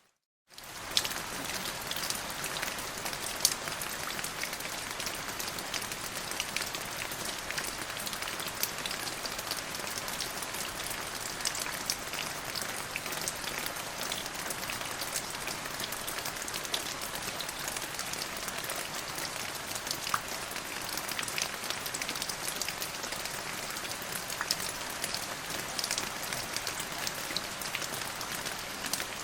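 Steady rain falling, with many separate drop hits ticking through an even hiss. It cuts out for about half a second at the very start, then resumes.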